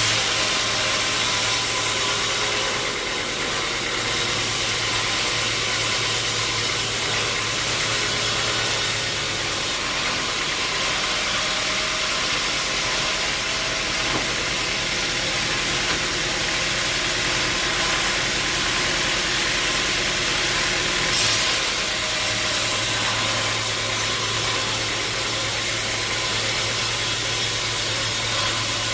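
Sawmill machinery running steadily with a constant hiss. A low hum stops about a third of the way through and comes back with a brief knock about two-thirds through.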